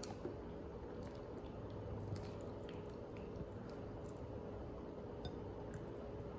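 Close-miked chewing with wet, squishy mouth sounds and scattered small clicks, over a faint steady hum.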